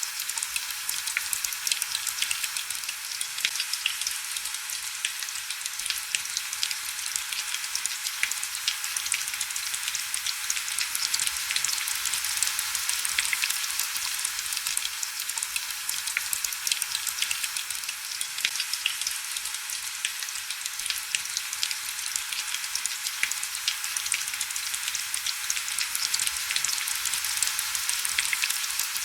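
Steady heavy rain: a dense, crackling patter of drops over an even high hiss, with very little low rumble.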